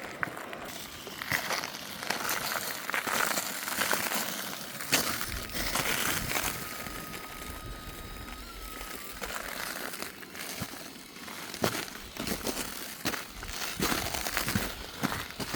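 Footsteps crunching unevenly over fresh, brittle lava crust.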